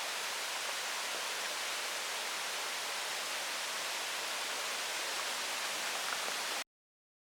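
Steady outdoor rushing noise, like running water or wind. It cuts off abruptly about six and a half seconds in.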